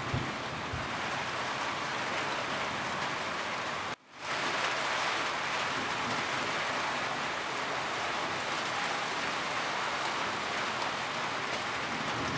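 Steady rain falling on a roof. It cuts out for a moment about four seconds in and comes straight back.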